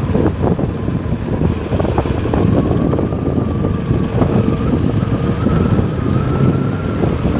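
Loud rushing noise of wind buffeting the microphone, with a faint thin tone slowly rising in pitch underneath.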